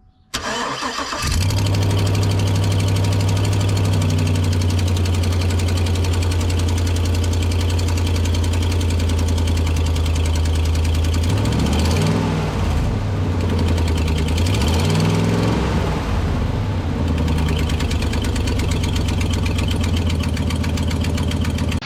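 Chevy Silverado engine cranking and catching about a second in, then idling with a fast ticking from an exhaust leak at the manifold, where three manifold bolts are broken. It is revved briefly a few times about halfway through, then settles back to idle.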